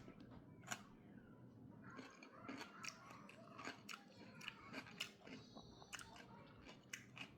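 Faint sounds of a person chewing and biting food, with irregular small clicks.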